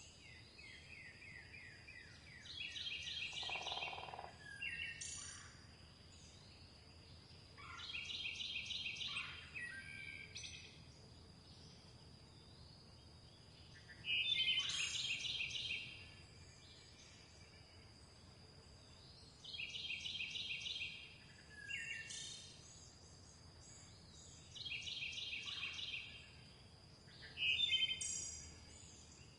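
Songbirds singing. One bird repeats a short, rapid trilled phrase every few seconds, and other chirps and sweeping calls come between its phrases, over a thin steady high tone.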